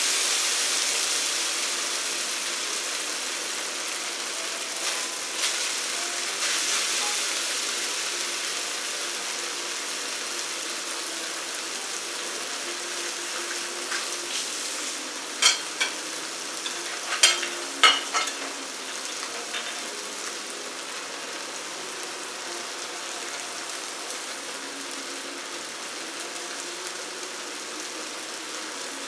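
Glass noodles frying in a wok: a steady high sizzle that slowly dies down. A few sharp clicks come in the middle.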